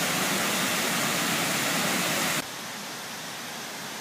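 Waterfall: a steady rush of falling water, which drops suddenly to a quieter level about two and a half seconds in.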